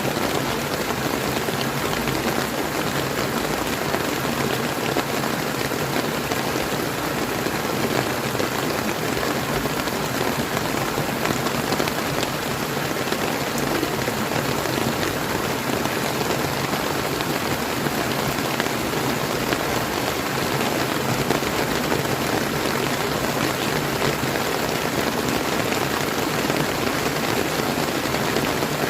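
Steady rain falling, mixed with flowing river water: an even, unbroken hiss.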